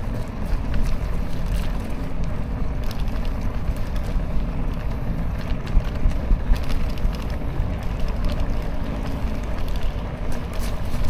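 Ride noise from a bicycle-mounted action camera: steady low rumble of wind on the microphone and tyres on the road, with scattered light clicks and rattles.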